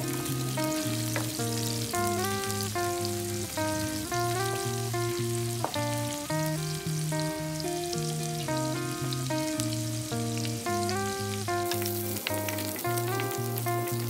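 Small dried anchovies sizzling steadily in hot oil in a wok as they are stirred with a wooden spatula, with a few light knocks. Background music with a stepping melody plays over the sizzle.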